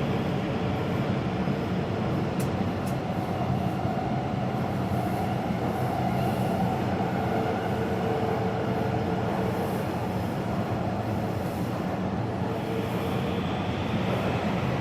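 Taipei Metro train running along the Zhonghe-Xinlu line, a steady rumble of the car in motion. A faint held tone comes in twice, in the middle and near the end.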